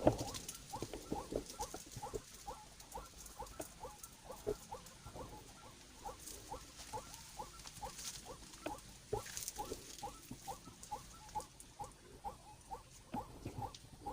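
White-breasted waterhen calling: a long run of short, repeated croaking notes, about three a second.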